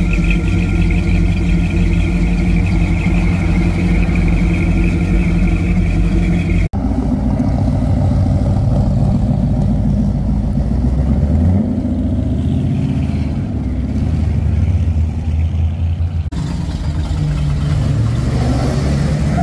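Hot rod engines running in three spliced clips: first a steady idle with a low rumble, then a deeper engine rumble that swells about halfway through, then another engine idling near the end.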